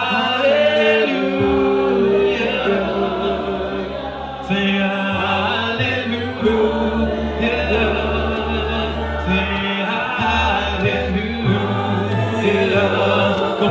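Gospel choir and congregation singing with a low instrumental accompaniment, holding long notes between phrases of a worship song.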